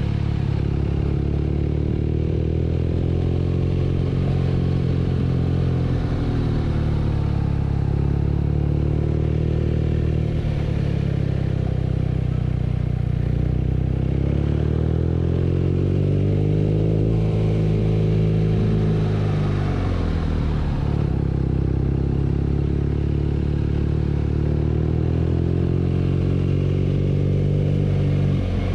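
BMW R nineT's boxer-twin engine running under way, its pitch rising and falling several times as the throttle is opened and closed.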